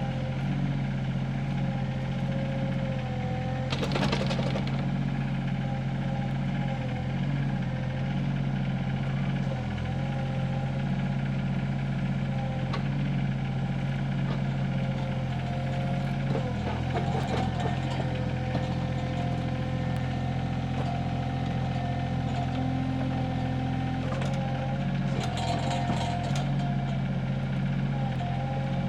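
Excavator diesel engine running steadily while its bucket scoops out a post hole in rocky soil. The bucket scrapes and clanks against rock and dirt about four seconds in, again around the middle, and near the end.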